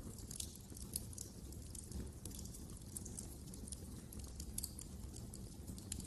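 Wood fire crackling in a fireplace: many small, sharp, irregular pops and snaps over a low steady rumble.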